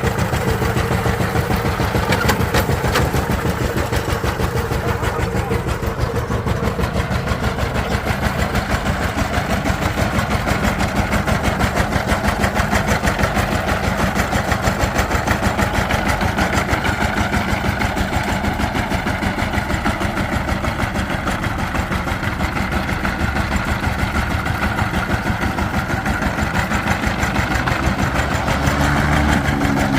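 Diesel engine running steadily with a fast, even beat of firing pulses. In the last couple of seconds it gets a little louder and a rising tone comes in.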